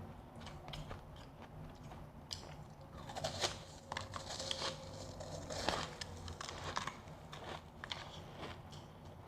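Close-up crunching of refrozen powdery freezer ice being bitten and chewed, with scattered crisp crackles that grow denser and louder in the middle.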